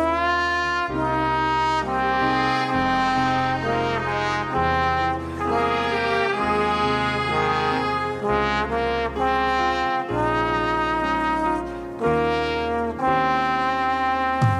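Brass orchestra playing sustained chords, with a melody held on top and the bass line moving to a new note about once a second.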